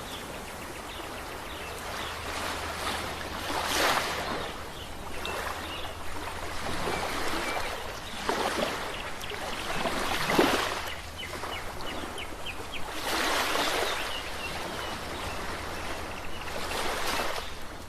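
Sea waves breaking and washing up a shore, swelling into a new surge every two to four seconds, with faint short high chirps between the surges.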